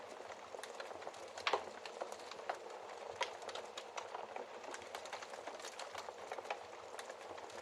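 Wood fire crackling in a fireplace: a steady hiss with irregular sharp pops and snaps, the loudest pop about one and a half seconds in.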